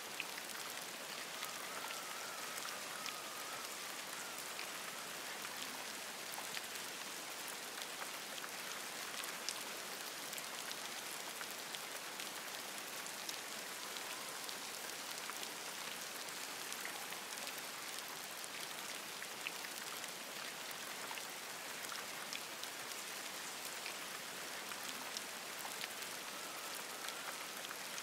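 Steady rain falling on forest leaves, with many separate drop ticks. A faint wavering call is heard about a second in and again near the end.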